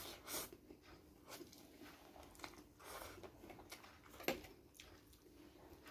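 Close-miked chewing of seafood fried noodles: soft wet mouth sounds with small clicks and smacks scattered through, and a sharper click a little after four seconds.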